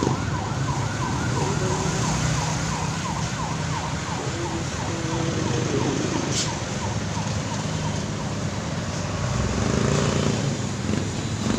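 Emergency vehicle siren on a fast yelp, about four quick pitch sweeps a second, fading out a few seconds in, over steady road traffic noise.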